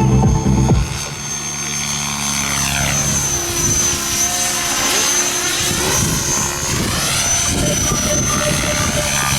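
Helicopter in flight, with a steady high turbine whine over the engine and rotor noise. Its sound takes on a swooshing, phasing sweep through the middle as it passes by. Electronic music cuts off under a second in.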